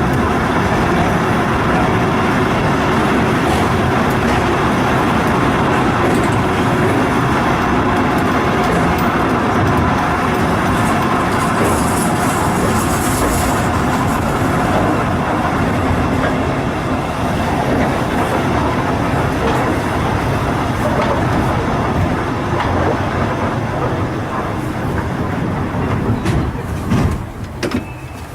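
Volks Electric Railway car running along its track: a steady rumble of wheels on rails and the electric drive. A brief high hiss comes about twelve seconds in, and the sound drops away near the end.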